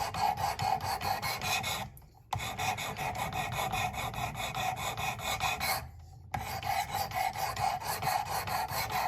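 320-grit abrasive rod of a Work Sharp Precision Adjust rasping in quick repeated strokes along a CruWear steel knife edge, with two brief pauses about two and six seconds in. The edge is being worked to raise a burr on the other side.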